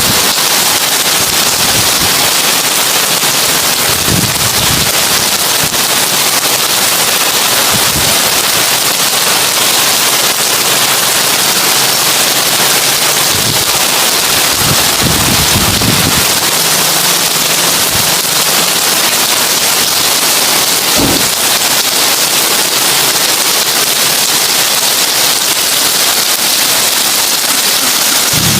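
Heavy rain on a tin roof: a dense, steady hiss of drops on metal sheeting. A few brief, dull low thuds break through now and then.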